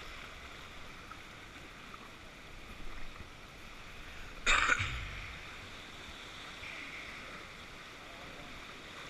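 Steady rush of river water around a raft on moving current, with one short, sharp noise about four and a half seconds in.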